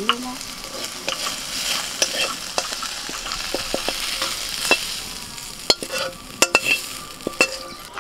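Gilipi fruit (Manila tamarind) pieces sizzling as they fry in a little oil in a metal kadai, stirred with a metal spatula that scrapes and clicks against the pan. The clicks come more often in the second half.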